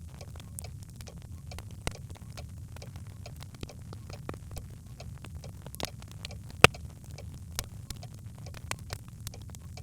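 Birchwood fire crackling in a fireplace: irregular sharp pops and snaps over a steady low rumble, with one louder pop about two-thirds of the way through.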